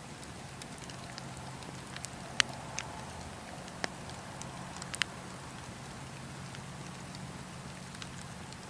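Campfire of burning wood crackling over a steady hiss, with a handful of sharp pops between about two and five seconds in.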